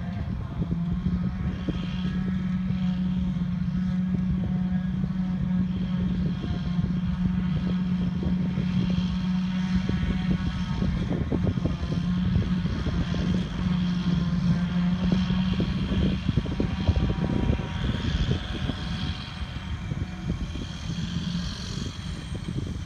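Heavy diesel farm machinery running steadily while chopping grass for silage, with a strong low hum that weakens about two-thirds of the way through.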